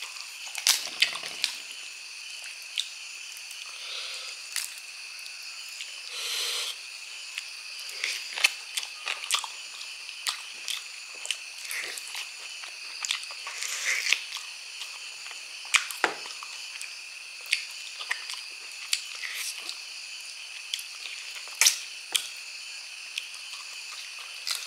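Close-up eating sounds: wet chewing, lip smacks and sticky clicks from biting into braised pork trotter skin and meat and rice eaten by hand. A steady high-pitched insect chirr runs underneath.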